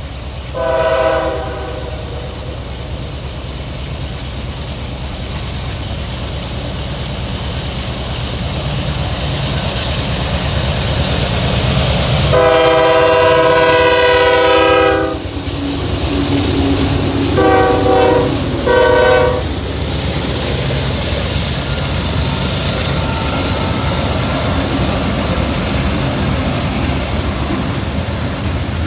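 CSX freight train passing close by, led by its diesel locomotives: the engines rumble and the wheels run on the rails, growing louder as the locomotives come level and then settling as the cars roll past. The locomotive's multi-chime air horn sounds a short blast about a second in, a long blast of nearly three seconds midway, and then two short blasts.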